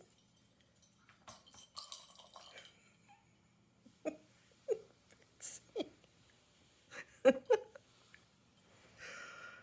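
A small dog, a Havanese, eating kibble off a plate: scattered clinks and crunches with a few short sharp sounds, the loudest a pair about seven seconds in.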